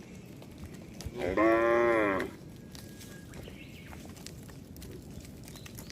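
A cow mooing once: a single call of about a second, starting about a second in and dropping in pitch as it ends.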